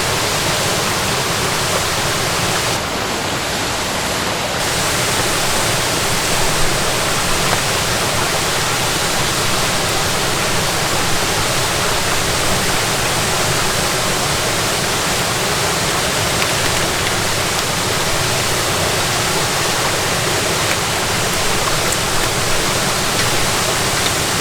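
Small stream rushing over rocks: a steady, even rush of water.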